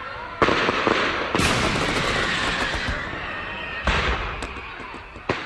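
Fireworks display shells bursting: four sharp bangs, the loudest about a second and a half in, followed by a couple of seconds of crackling.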